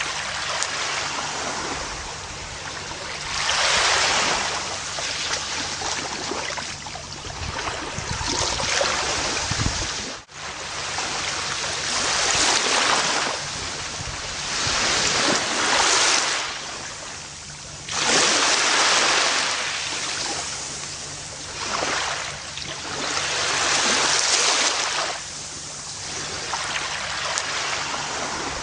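Ocean waves washing onto a beach, a steady hiss of surf that swells and falls back every few seconds. A brief sudden dip in the sound comes about ten seconds in.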